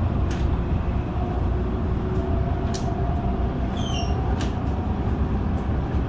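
MTR Tung Chung line CAF-built electric train running: a steady low rumble of wheels on track with a faint motor hum and a few light clicks.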